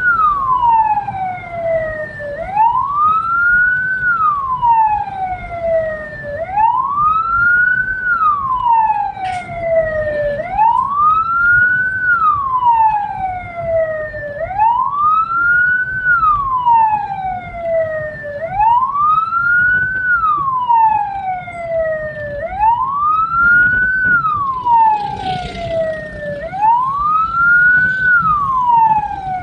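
Hearse siren wailing, its pitch rising and then falling slowly in a cycle about every four seconds, over the low rumble of the vehicle.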